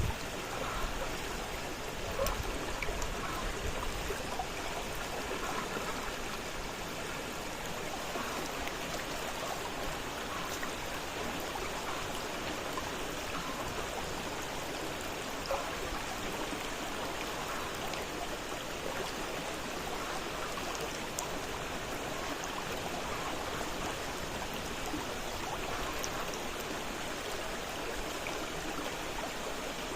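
Fast-flowing river water rushing steadily, with a few low bumps in the first few seconds.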